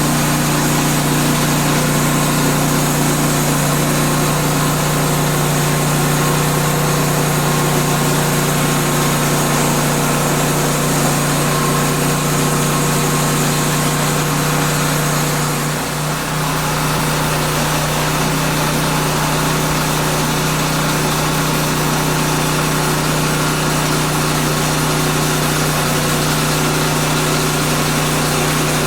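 Woodland Mills portable sawmill's engine running steadily through a cut, with a brief dip in level about sixteen seconds in.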